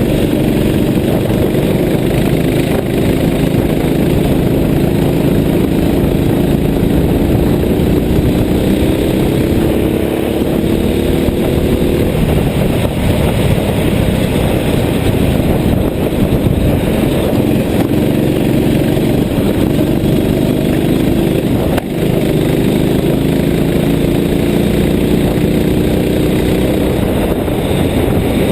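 A vehicle engine under way, twice pulling up slowly in pitch for about ten seconds at a time, over a steady rush of road noise.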